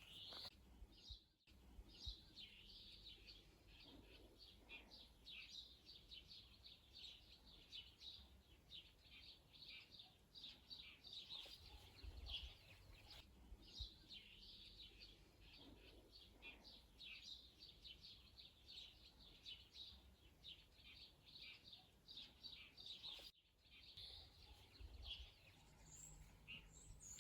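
Faint songbirds chirping and singing steadily, many quick high notes, broken twice by a brief drop-out.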